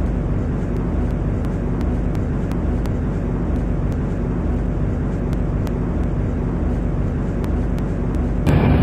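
MTR Tseung Kwan O line C-Train running along the track, a steady low rumble of wheels and traction equipment heard from inside the car, with faint ticks; the noise gets suddenly louder just before the end.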